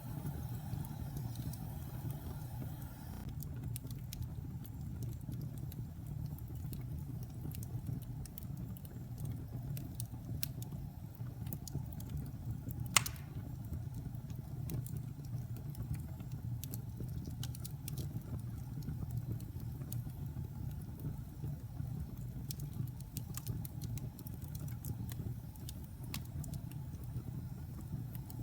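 Wood fire burning in a fireplace: a steady low rumble of flames with scattered crackles, and one sharp louder pop about halfway through.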